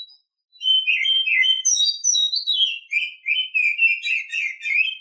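A female oriental magpie-robin in breeding condition singing one unbroken phrase of quick, varied whistled notes, starting about half a second in and stopping at the very end.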